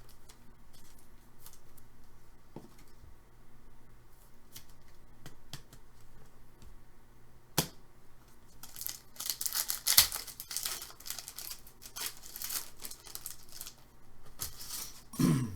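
Hockey card packs being opened and handled: faint clicks, a sharp snap about seven and a half seconds in, then several seconds of crinkling and tearing of the pack wrapper, with another short burst near the end.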